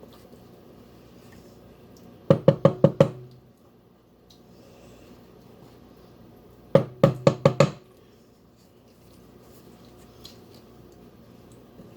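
Two bursts of quick, ringing knocks, five or six in each, about four seconds apart: a utensil rapped against the rim of a mixing bowl.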